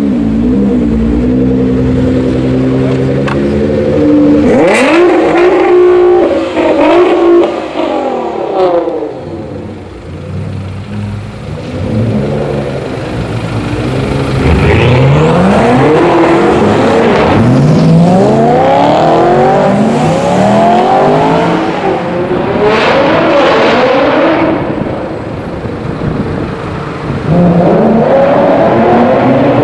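A performance car's engine idling, then revved hard over and over, each rev rising sharply and falling back to idle.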